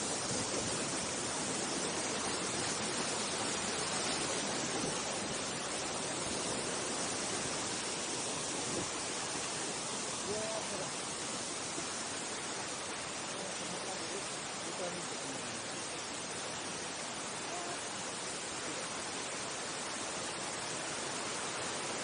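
Mountain stream water rushing steadily over rocks, a continuous even rush with no breaks.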